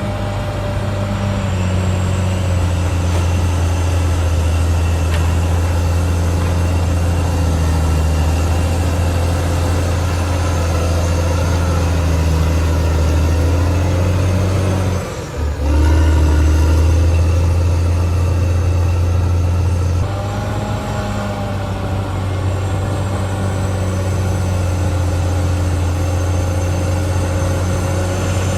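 CAT D6R XL bulldozer's diesel engine running steadily under work. Its sound drops out briefly about halfway through, comes back louder, then eases to a lower, wavering pitch near two-thirds of the way in.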